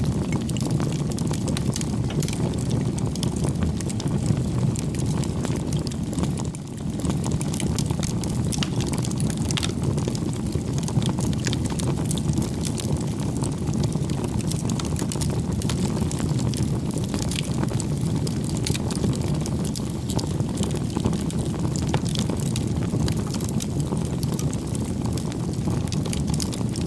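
Campfire burning: a steady low rush of flames under frequent sharp crackles and pops from the burning wood.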